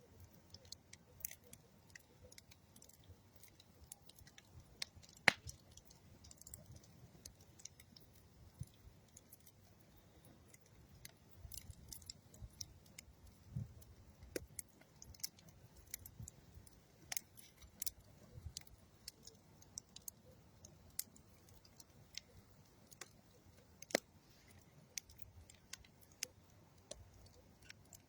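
Campfire of old railroad wood and dead tree wood crackling: irregular small snaps and pops, with two louder pops, one about five seconds in and one near the end.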